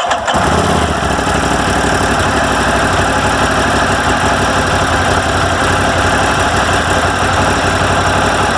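Ducati Monster 1200S's Testastretta L-twin engine idling steadily, its exhaust loud and even.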